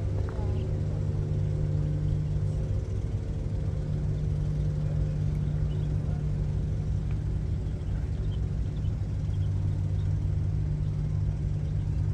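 An engine running at a steady speed, a low even hum.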